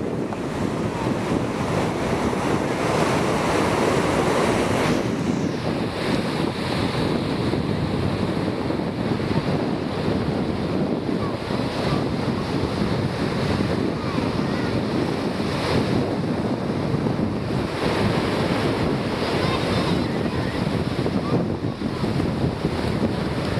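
Steady wind rushing and buffeting across the microphone.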